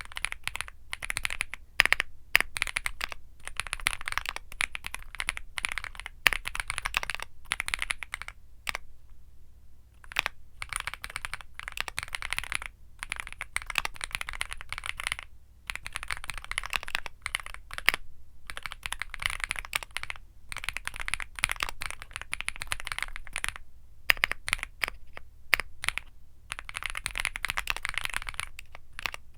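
Womier SK75 mechanical keyboard with Womier Mint Blizzard switches being typed on quickly, a dense run of key clacks broken by a few brief pauses.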